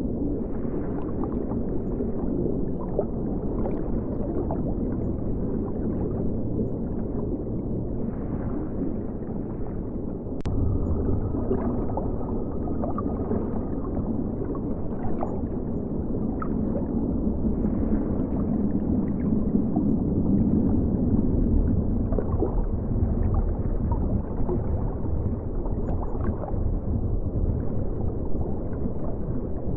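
Flowing river water heard from under the surface: a steady low rumble and gurgle with faint ticks throughout, and one sharp click about ten seconds in.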